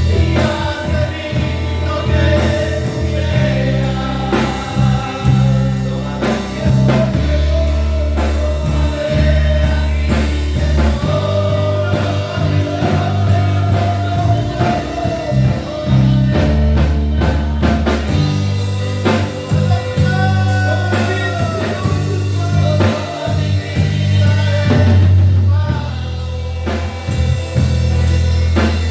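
Christian worship music: a band with drum kit and bass playing under sung vocals with a steady beat.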